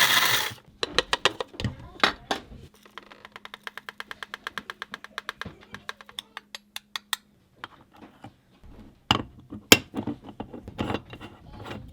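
Small kitchen handling sounds while coffee is made: scattered clicks, then a run of rapid, even clicks for about four seconds over a faint steady hum, then a few sharp knocks.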